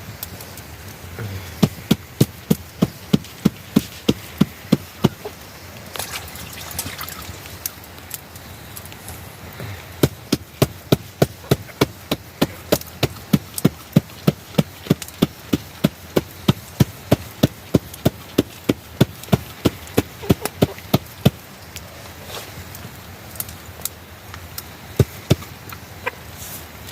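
Knife chopping vegetables on a board in steady strokes, about three a second. One short run comes near the start and a longer one runs through the middle, with a few stray strokes near the end.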